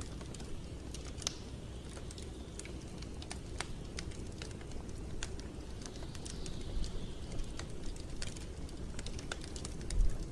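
Wood fire burning in a fireplace: sharp, irregular crackles and pops over a steady low rumble, with a louder low thump near the end.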